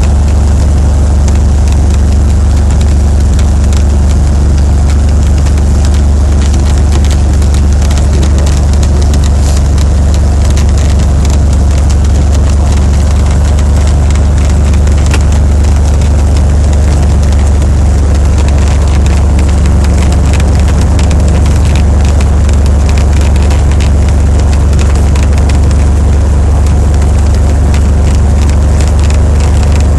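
Cessna 182P's six-cylinder Continental piston engine and propeller running steadily and loudly, with a deep, unchanging drone.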